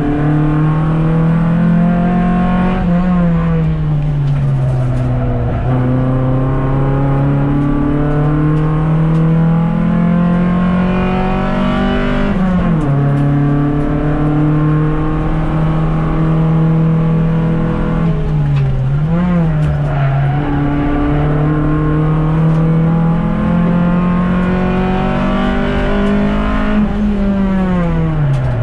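Car engine heard from inside the cabin at track speed. The revs climb slowly in each gear and fall sharply at gear changes about 3 and 12 seconds in, with a quick dip and recovery near the 19-second mark and a falling note near the end.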